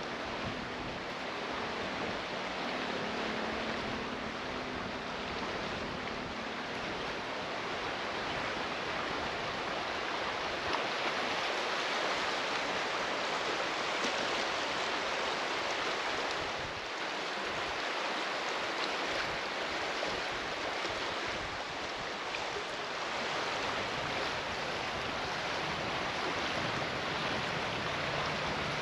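Steady rush of moving water, swelling a little midway.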